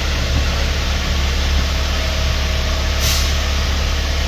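Garbage truck engine running steadily, heard from inside the cab as a deep even drone, with a short hiss of air about three seconds in.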